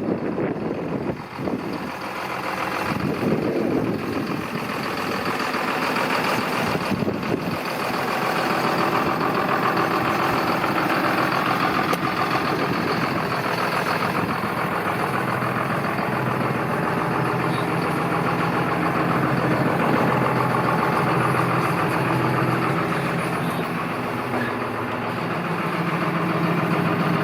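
2006 John Deere 6920S tractor's six-cylinder diesel engine running steadily, a little louder after the first few seconds.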